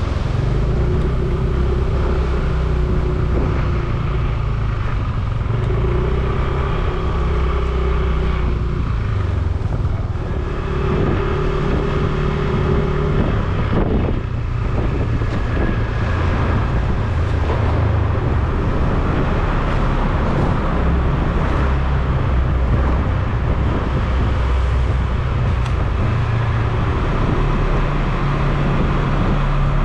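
Motorcycle engine running under way, its note shifting up and down every few seconds with speed and gear changes, over steady road and wind noise.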